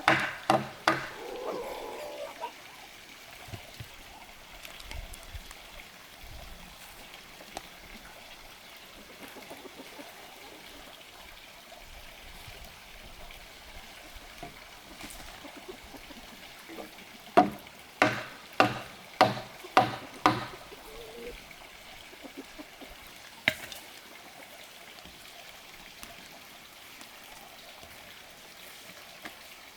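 Sharp blows on wood, like chopping or hammering, each ringing briefly. A few come right at the start and a quick run of about seven comes about two-thirds of the way through, over a steady background hiss.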